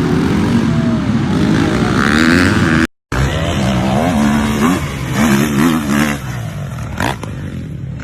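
Dirt bike engine revving, its pitch rising. After a sudden cut about three seconds in, an engine revs up and down in quick blips.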